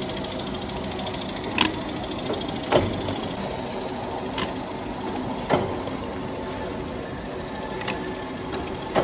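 Dough divider rounder machine running, a steady mechanical hum broken by sharp knocks every second or two as its piston divider cycles, with a short high hiss twice.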